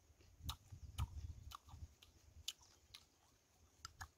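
Crunchy chewing of crispy field mouse: faint, irregular crackles about every half second.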